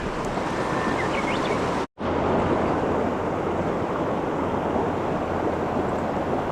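Mountain stream water rushing in a steady, dense roar, with the sound cutting out abruptly for an instant about two seconds in.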